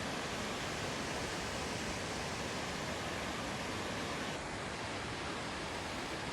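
Waterfall water falling and rushing in a steady, even noise, with a slight change in tone about four seconds in.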